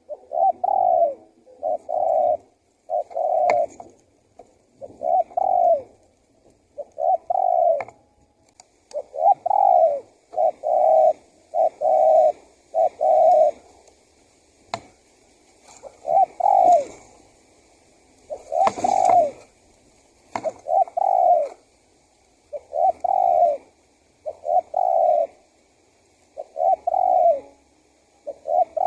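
Male spotted dove (tekukur) singing its cooing song: low coo notes repeated about one a second, in runs of several with short pauses between, with a few faint clicks.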